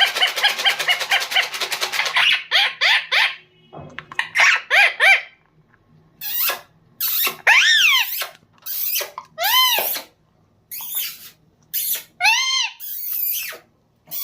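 Pet green parrot vocalising: a rapid, chattering laugh-like run for the first couple of seconds, then a series of separate rising-and-falling squawking calls and short harsh screeches with gaps between them.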